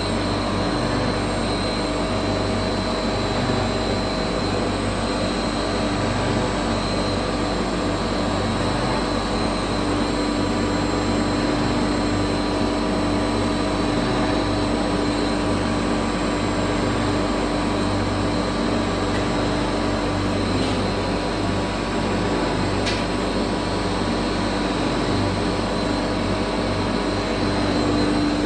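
CNC router machining sliding-wardrobe panels: a steady mechanical din with a constant spindle whine over a dense rushing noise.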